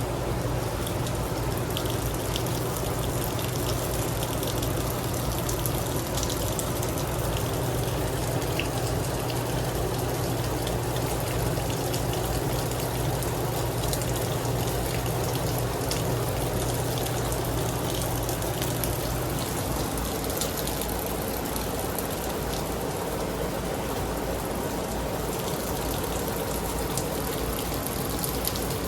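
Heavy rain falling steadily, with scattered drops ticking. A low hum underneath stops about two-thirds of the way through.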